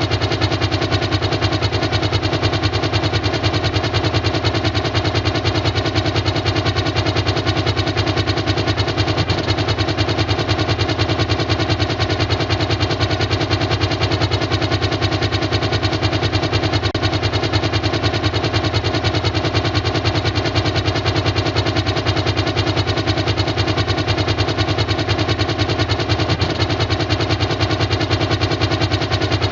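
A steady, engine-like mechanical hum with a fast flutter, unchanging throughout: a sound effect laid over drone flight footage.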